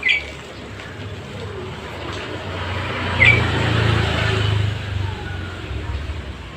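A motor vehicle passing by, its rumble swelling to a peak about three to four seconds in and then easing off. Over it come two short, sharp whistle-like calls from the hill myna, one right at the start and a louder one a little past three seconds.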